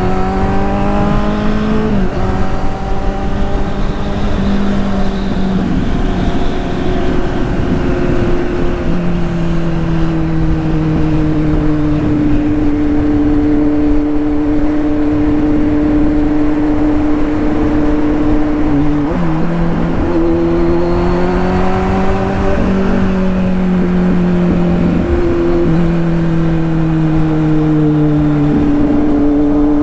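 Kawasaki Z800 inline-four motorcycle engine running through a straight-through exhaust, loud and steady, its pitch drifting up and down with the throttle and jumping abruptly several times.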